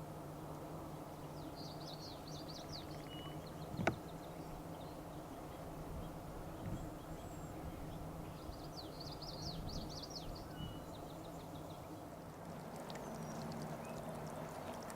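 Two bursts of rapid, high-pitched bird chattering, each lasting a second or two, over a steady low hum, with a single sharp click about four seconds in.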